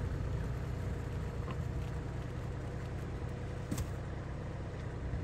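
A motor vehicle's engine running steadily at low revs, with a few light clicks and knocks from heavy copper cable being drawn through a stripping jig.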